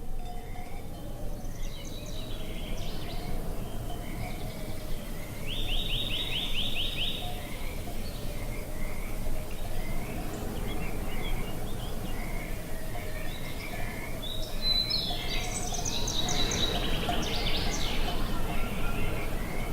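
Songbirds singing and calling over a steady low rush of wind: a repeated short chirp throughout, a quick rattling trill about six seconds in, and a burst of busier song in the last few seconds.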